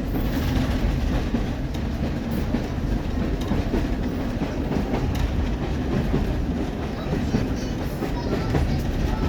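Steam train passenger carriage running along the track, heard aboard: a steady rumble with light clicks and knocks of the wheels on the rails, the coach shaking as it goes.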